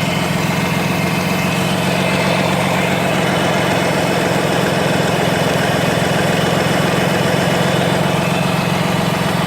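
Mazda RX-8's 13B rotary engine idling steadily with a shake, running only because oil was added through the spark plug holes. Only one rotor is firing, which the mechanic takes as the sign that the apex seals no longer seal.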